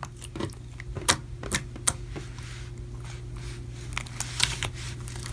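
Slime being squeezed and pressed in the hands, giving small irregular clicks and pops over a faint steady hum.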